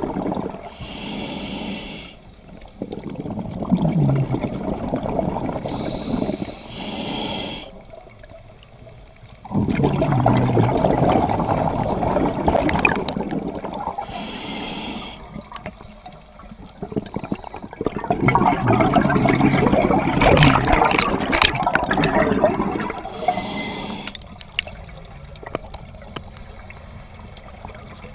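Scuba diver breathing underwater through a regulator: a short hissing inhale, then a longer bubbling exhale, repeated about three times.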